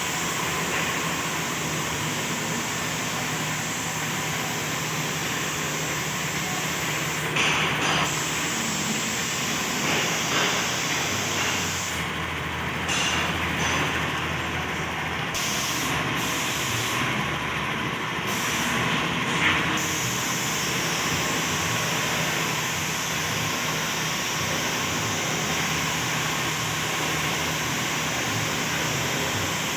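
Air spray gun hissing steadily as paint is sprayed, with the hiss cutting out briefly a few times near the middle as the trigger is let off, over the steady hum of a running machine.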